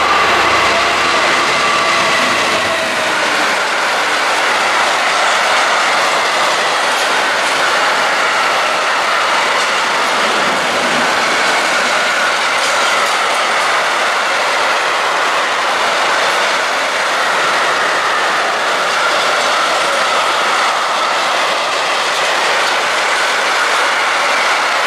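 A long train of wagons passing through the station on the rails, with steady wheel-on-rail noise and a faint wavering high-pitched squeal from the wheels.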